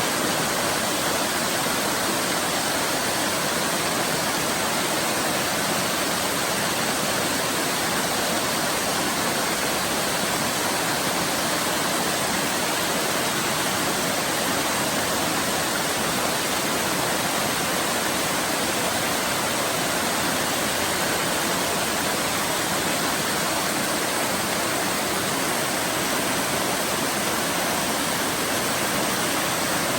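Waterfall rushing steadily, a continuous even roar of falling water with no breaks or changes.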